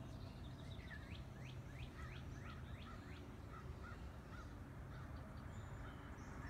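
A bird calling: a quick run of about ten falling whistled notes, about four a second, starting about a second in, then a few fainter short notes. A faint steady low rumble of outdoor background runs underneath.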